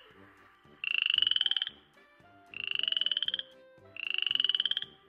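Frog croaking three times, each croak a rapid rattling trill just under a second long, about a second apart, over faint background music.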